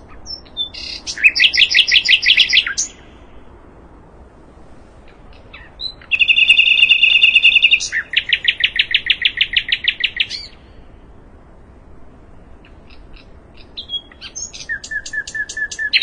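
Sikatan londo songbird singing three phrases, each a fast run of repeated notes, the middle one opening with a held note.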